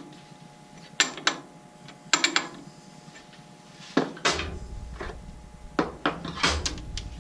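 Tools and metal parts knocking and clanking on a lathe as it is set up, several separate sharp knocks. About four seconds in, a low steady hum starts and keeps going.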